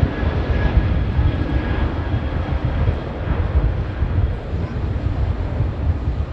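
Jet airliner engines rumbling loudly as a plane passes, the sound easing off gradually. A faint whine fades out in the first second.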